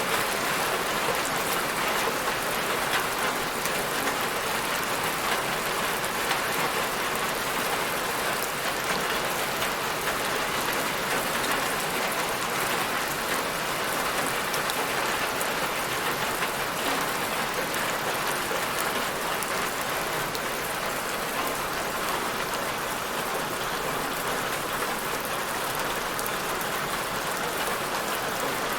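Steady rainfall: a continuous even hiss of rain with fine pattering drops.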